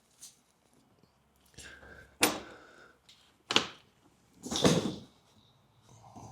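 A few short knocks and scrapes, the sharpest about two, three and a half and four and a half seconds in, as a person clambers about in and out of a car's empty engine bay.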